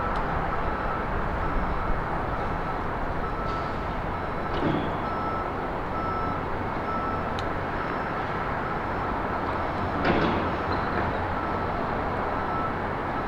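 Steady road traffic noise with a vehicle's reversing alarm beeping at an even pace throughout; a brief louder sound rises out of the traffic about ten seconds in.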